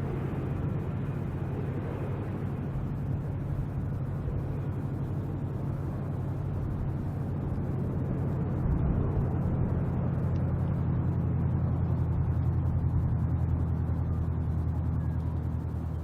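Jet engine rumble of an Airbus A330-941 (Rolls-Royce Trent 7000 engines) coming in to land: a steady low roar that grows louder about nine seconds in and eases off near the end.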